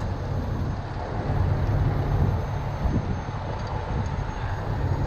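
Heavy diesel truck engine idling, a steady low rumble.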